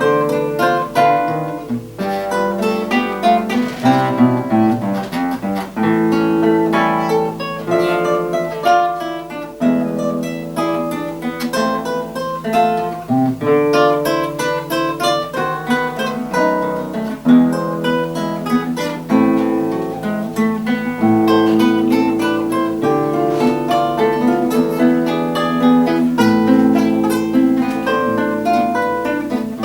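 Duet of two acoustic guitars playing a continuous melody of plucked notes over held bass notes.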